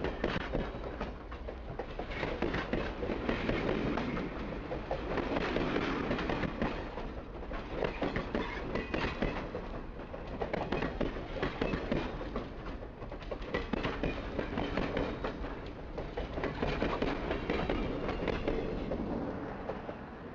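Passenger train cars rolling along the rails: a continuous rumble with dense clattering and knocking from the wheels and cars.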